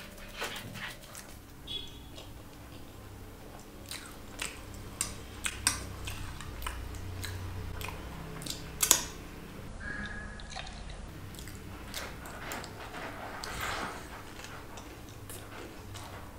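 Close-miked eating sounds: a person chewing dahi puri (crisp puri shells filled with curd) with scattered wet mouth clicks. A metal spoon clinks on a plate about nine seconds in as it scoops one up.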